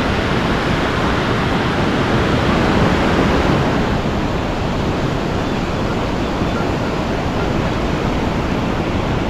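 A steady, even rushing noise like surf, rain and wind outdoors, with no distinct events, swelling slightly about three seconds in.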